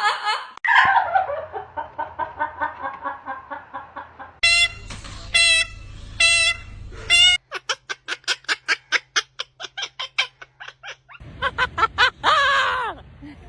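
Pet parrot vocalising: a run of quick laugh-like notes falling in pitch, then four short whistled notes, a fast clicking rattle, and a loud squawk near the end.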